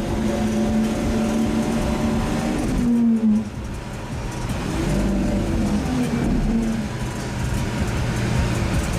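Lamborghini Aventador SV's V12 heard from inside the car, running at a steady pitch, revving up briefly and cutting off abruptly about three seconds in, then rising and falling in pitch again.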